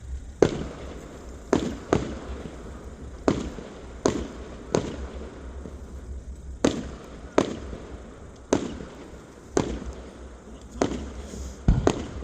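Fireworks going off: about a dozen sharp bangs at uneven intervals, roughly one a second, each with an echoing tail, over a steady low rumble.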